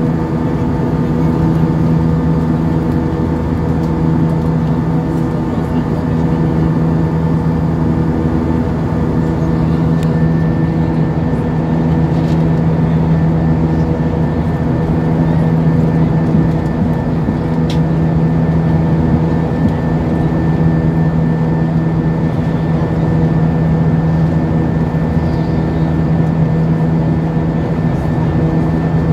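Steady cabin noise of an Airbus A320 with IAE V2500 engines in flight: a constant low hum with a few steady tones over an even rush of air.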